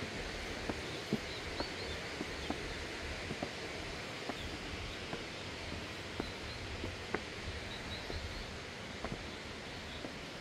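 Footsteps of a person walking up a path, about two steps a second, over a steady outdoor hiss, with faint bird chirps now and then.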